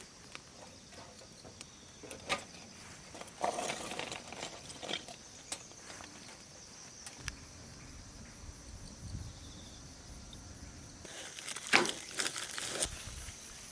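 Steady high insect chirring with scattered clicks and knocks of handling; the loudest, a sharp knock, comes near the end.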